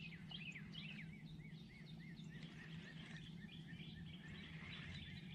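Faint outdoor bird calls: a quick series of short, repeated downward-sliding chirps, fading after about three seconds, over a steady low background hum.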